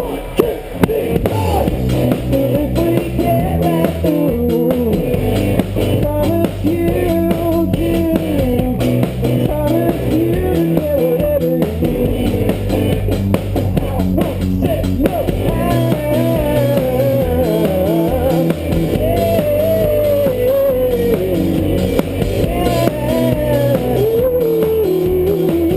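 Live rock band playing an instrumental passage: a winding guitar lead line over drums and bass.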